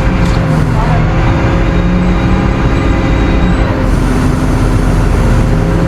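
Tow truck engine running steadily at a constant speed, a low hum with a few steady tones.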